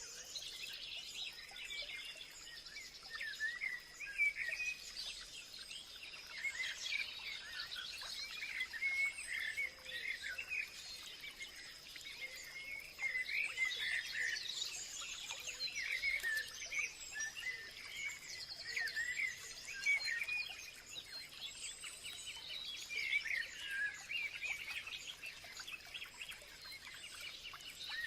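Several songbirds chirping and singing at once, a dense overlapping chorus of short calls, with a steady high insect buzz underneath.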